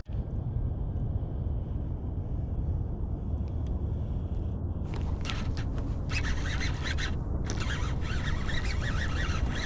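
Steady low wind rumble on the microphone, joined about five seconds in by a choppy, crackling noise higher up.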